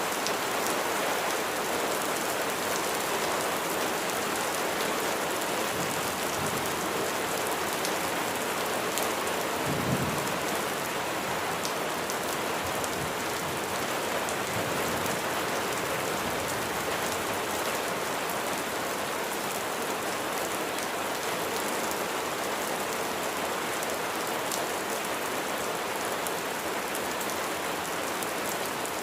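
Rain falling steadily, with a brief low rumble of thunder about ten seconds in.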